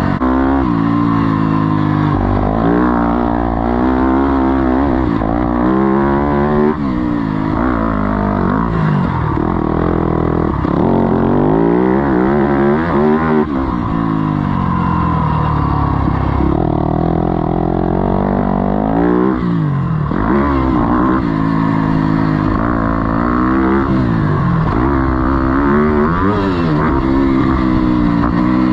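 Single-cylinder four-stroke off-road engine revving hard on a motocross track, its pitch rising and falling over and over through about a dozen throttle-ups and shifts.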